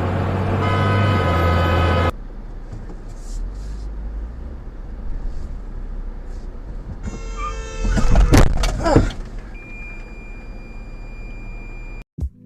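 A car horn is held for about two seconds and cuts off, leaving road noise. About seven seconds in comes another horn blast, then two loud crashing impacts a moment apart, like a vehicle collision. A thin steady high beep follows.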